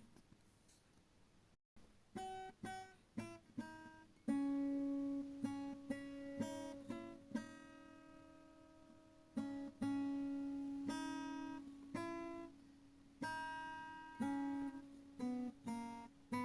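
Background music of a plucked acoustic guitar: picked notes that ring and fade over a held low note. The music drops out for an instant about two seconds in.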